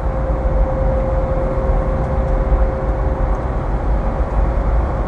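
Steady road and engine rumble of traffic at highway speed, with a constant steady hum throughout.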